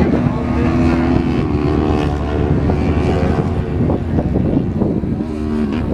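Lightweight sportbike racing motorcycles running hard on the track: several engine notes held at high revs and shifting slightly in pitch, over a low rumble.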